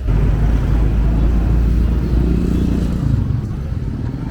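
A motor vehicle engine running close by: a loud, steady low rumble that starts suddenly, its pitch rising and falling slightly about halfway through.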